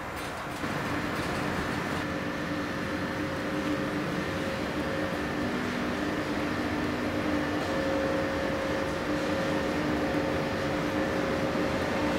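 TGV high-speed train's passenger cars rolling slowly past along the platform, with a steady hum of several held tones from the train's electrical and ventilation equipment, slightly louder from about a second in.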